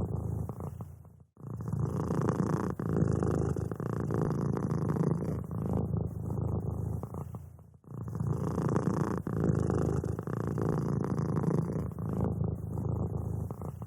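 A cat purring steadily, a close low rumble that breaks off briefly about a second in and again near eight seconds before resuming.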